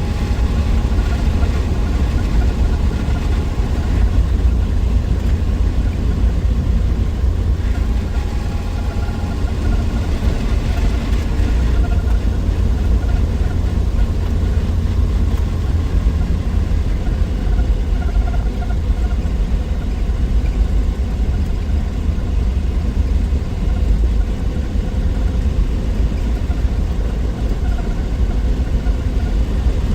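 A 1963 Willys Wagon's 230 Tornado overhead-cam straight-six running steadily on the road, a constant deep rumble of engine and road noise with no changes in pace.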